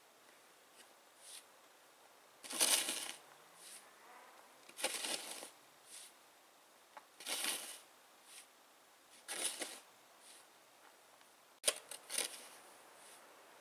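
Snow shovel scooping and scraping through deep, wet snow: five strokes about every two and a half seconds, with softer crunches between them and a sharp knock near the end.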